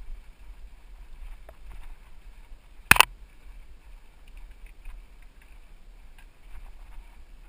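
Mountain bike ride noise on a helmet-mounted GoPro: a steady low wind rumble with faint rattles and ticks, and one sharp, loud knock about three seconds in.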